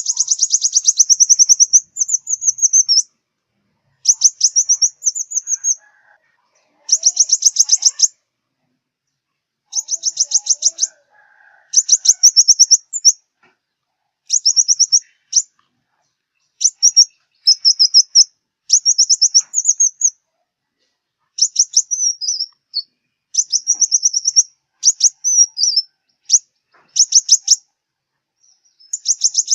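Sunbird song, the bird sold in southern Vietnam as the 'five-colour' sunbird: a string of high, rapid trills, each about a second long, repeated with short gaps.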